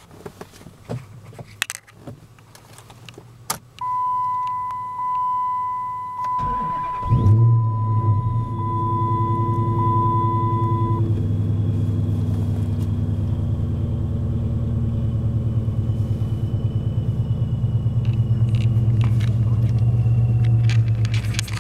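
Keys rattle and a steady electronic dash chime sounds. About six and a half seconds in, the starter cranks briefly and the supercharged 5.7-litre Hemi V8 fires with a loud burst. It then settles into a steady fast idle on a cold start.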